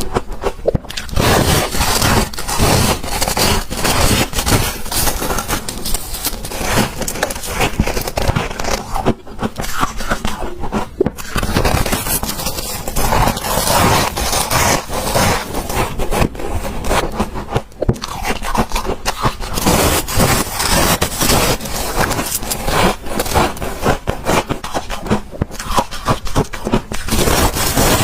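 Freezer frost being scraped and bitten: a dense, irregular run of crunches and scrapes.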